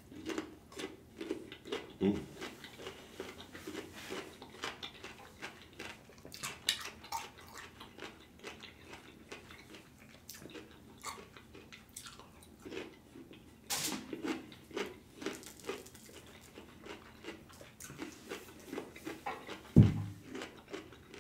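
A mouth chewing and crunching raw cucumber spears close to the microphone, with many small crisp bites and wet mouth sounds. There is one louder crisp crunch about two-thirds of the way in, and a dull low thump near the end.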